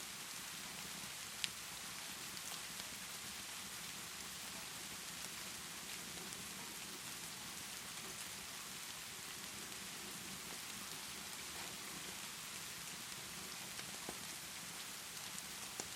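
Steady rainfall hissing evenly, with a few sharp crackles from a wood fire, the loudest about a second and a half in.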